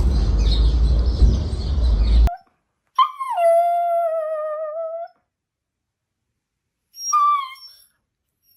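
A dog gives a long, drawn-out whining howl, sliding down in pitch and then holding steady for about two seconds, followed by a shorter one near the end. Before it, a loud low rumbling noise cuts off abruptly a little over two seconds in.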